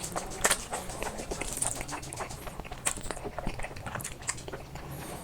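Close-up eating of black bean noodles: wet chewing and biting with many short, irregular mouth clicks and smacks.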